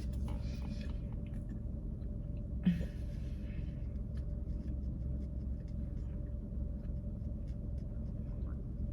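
Steady low rumble inside a parked car's cabin, the car idling, with faint small clicks throughout and a brief rustle with a soft thump a little under three seconds in.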